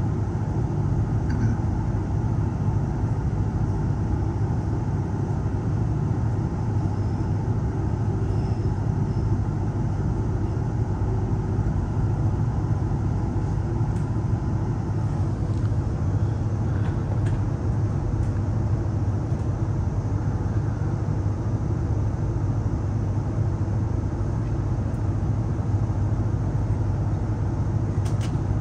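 Steady rumble of a Queensland Rail electric passenger train running along the track, heard from inside the carriage.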